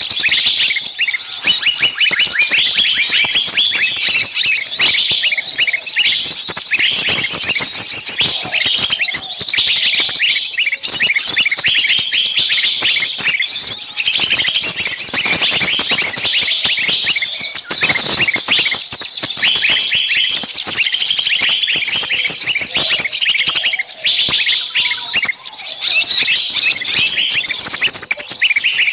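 Bird-lure recording of many small songbirds calling at once: a dense, unbroken racket of rapid, shrill chirps and scolding notes. It is the agitated, 'screaming' sound of birds in distress, used to draw in small birds.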